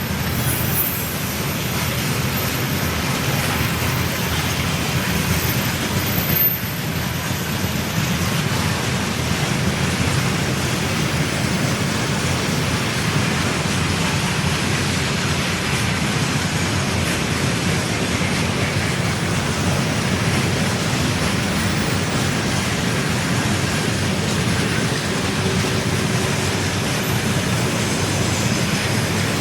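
A long freight train rolling past at speed, its wagons making a steady rushing rumble of wheels on rail that runs without a break.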